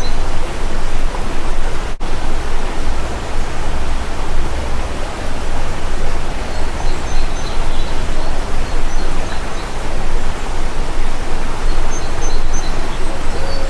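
Steady rushing of a stream or small waterfall, a loud even hiss, with faint bird chirps now and then, clearest about twelve seconds in.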